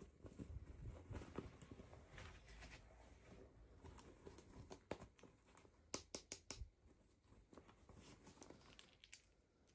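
Faint rustling and crinkling of toy packaging being handled, with a quick run of small sharp clicks about two-thirds of the way through.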